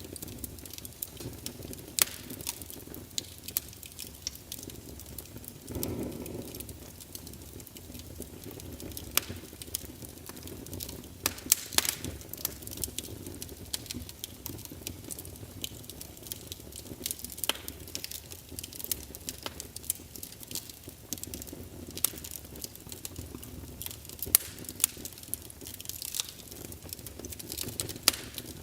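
Wood logs burning in a fireplace: irregular sharp crackles and pops over a low steady rumble of the flames, with a brief louder whoosh about six seconds in.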